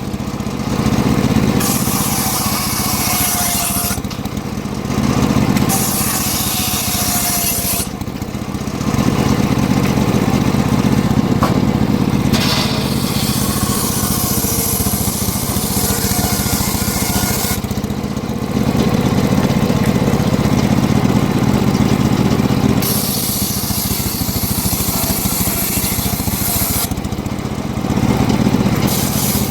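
Homemade engine-driven circular sawmill running steadily, its blade ripping a mahogany log. A high-pitched hiss of cutting comes and goes in passes of a few seconds each over the constant engine hum.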